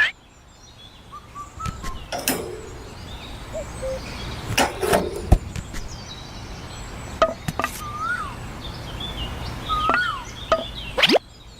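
Outdoor ambience with birds chirping now and then, scattered sharp clicks and knocks (the loudest about five seconds in), and a low steady hum underneath.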